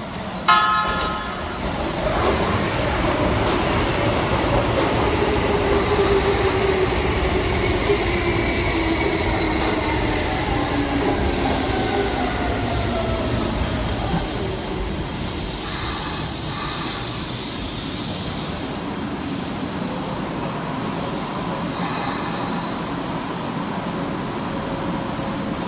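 Keisei 3600-series electric train pulling into the platform. A short horn blast comes about half a second in. Then the traction motor whine falls steadily in pitch as the train brakes, over the rumble of wheels on rail, with a stretch of brake hiss and squeal as it rolls slowly past.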